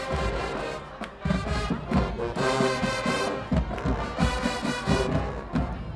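High school marching band playing, brass over a steady beat of bass drum hits; the music drops briefly about a second in, then comes back in full.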